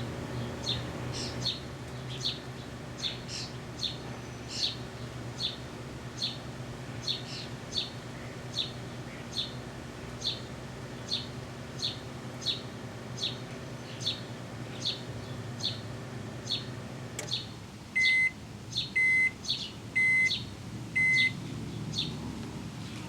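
Microwave oven running with a steady hum, then shutting off about 17 seconds in and beeping four times, a second apart, at the end of its cycle. Short high chirps repeat about every second and keep going after the oven stops.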